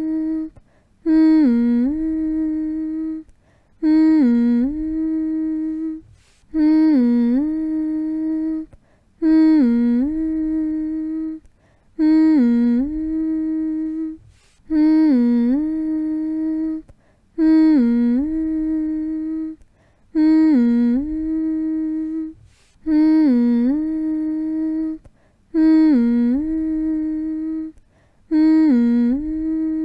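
A person's voice humming the same short phrase over and over, about every three seconds, with brief pauses between. Each phrase opens with a quick dip in pitch and then settles on a long held note.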